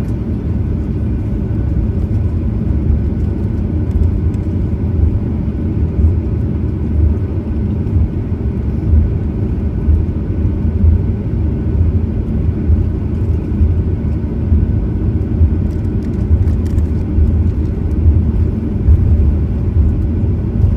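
Steady low rumble inside a Boeing 737-900ER's cabin with its CFM56-7B jet engines running, even in level and without a spool-up.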